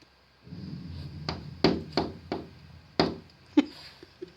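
African grey parrot knocking on a window, about six sharp, uneven taps over a couple of seconds, with a low steady hum underneath.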